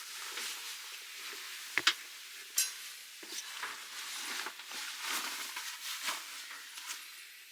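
Irregular rustling and crunching handling noise, with sharp clicks a little under two seconds in and again a little over two and a half seconds in.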